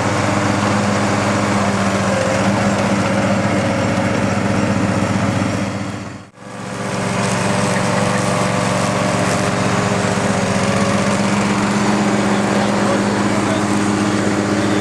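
Briggs & Stratton 14 hp Vanguard V-twin engine of a 1991 Ingersoll 3014 garden tractor running steadily while mowing. About halfway through it briefly fades out and comes back.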